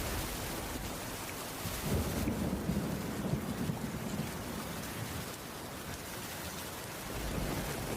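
Steady heavy rain on a wooden cabin roof, with a low rumble of thunder starting about two seconds in and dying away a couple of seconds later.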